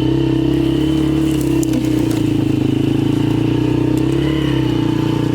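1990 Polaris quad (ATV) engine running steadily at a constant speed, its pitch holding level with no revving.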